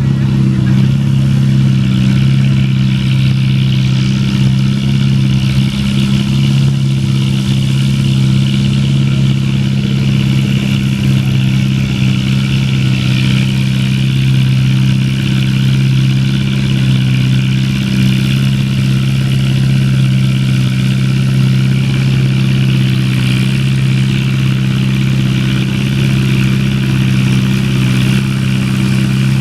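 Antique farm tractor engine running loud and steady at a constant speed, its pitch holding throughout with no revving.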